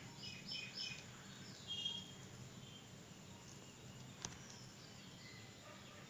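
Faint bird chirps: a quick run of three short chirps, then one more about a second later. A single sharp click sounds about four seconds in.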